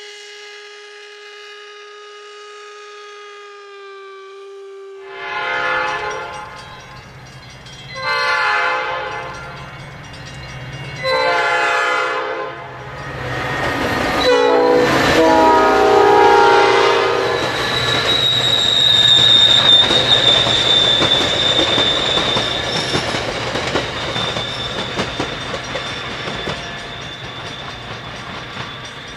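A steam locomotive whistle holds one steady note for about five seconds. Then a commuter train's air horn sounds four blasts for a grade crossing, the last the longest, and the train runs past with its wheels rumbling and a steady high squeal.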